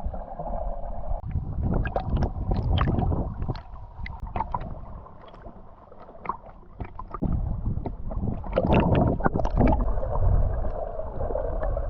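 Small boat under way on open water: a steady motor hum with rumbling wind and water splashing and slapping against the hull, easing off for a couple of seconds midway.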